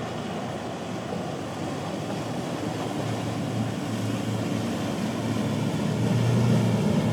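Motorboat engines running and drawing closer, the drone growing steadily louder over the second half.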